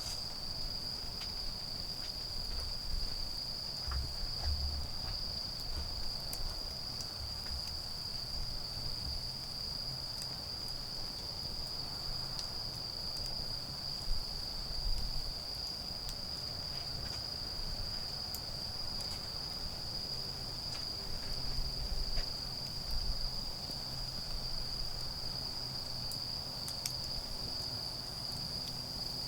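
Autumn crickets calling in one continuous high-pitched trill that holds steady throughout, with a few faint crackles from a wood campfire.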